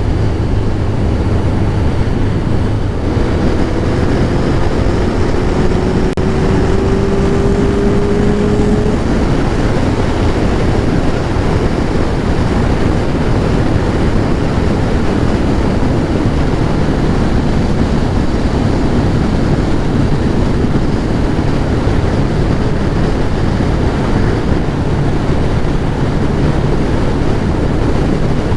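Kawasaki ZX-11 Ninja's inline-four engine running under way, buried in heavy wind rush on the microphone, with a tone rising in pitch for several seconds about three seconds in.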